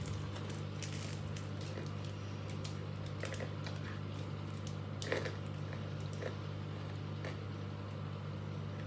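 Someone biting and chewing a Cadbury Crunchie bar, honeycomb in milk chocolate: scattered crisp crunching clicks, one louder about five seconds in, over a steady low hum.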